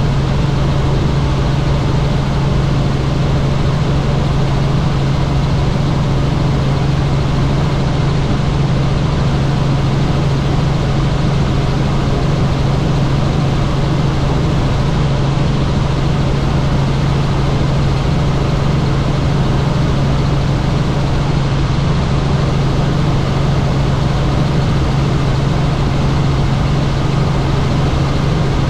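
Helicopter in flight: steady, loud engine and rotor noise with a strong, unchanging low hum.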